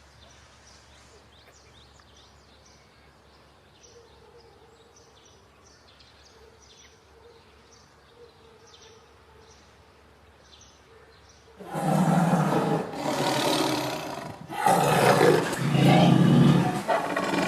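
A large animal roaring, a series of loud, long calls starting about twelve seconds in, after a quiet stretch with faint small bird chirps.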